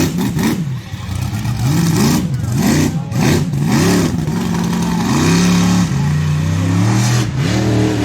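Monster truck engine revving, its pitch rising and falling again and again in quick throttle blips, with a longer held rev about five seconds in.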